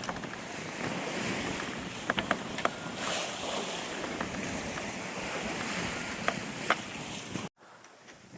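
Sailboat under way at sea: wind and water rushing past the hull, with a few sharp clicks and knocks now and then. About seven and a half seconds in, the sound cuts off abruptly to a much quieter wash.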